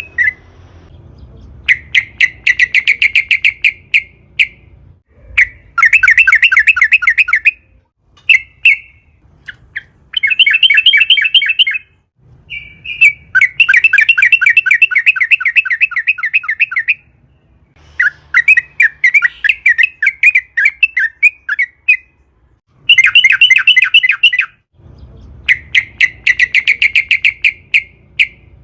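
Yellow-vented bulbul (trucukan) singing a long, rapid, bubbling chatter. It comes as about eight fast-trilled phrases of a few seconds each, with short breaks between them.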